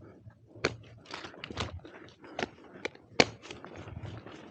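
Teak branches and dry leaves rustling, with scattered sharp cracks and snaps at irregular intervals.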